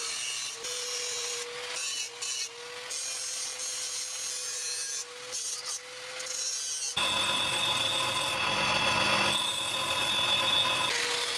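A power tool running with a steady hum while steel is ground against it in rasping stretches. About seven seconds in, a louder, higher-pitched whine takes over for about four seconds, then the steady hum returns.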